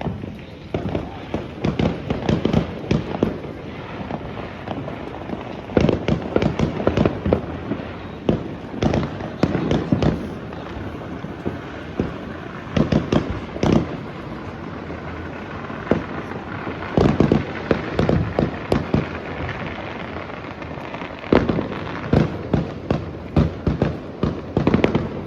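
New Year's fireworks going off in repeated volleys of sharp bangs and crackles, a cluster every few seconds, over a continuous haze of more distant explosions.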